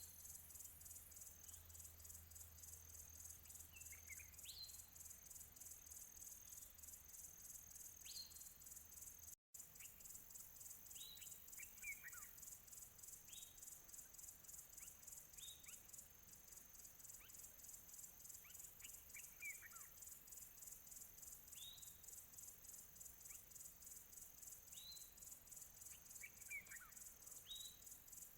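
Crickets chirping in a fast, steady pulsing trill, with distant birds calling in short rising and falling chirps every second or two. Faint, with a brief dropout about nine seconds in.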